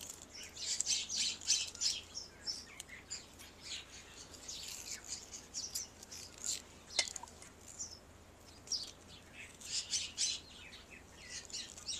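Small birds chirping, bursts of quick high notes that come and go in clusters, with a single sharp click about seven seconds in.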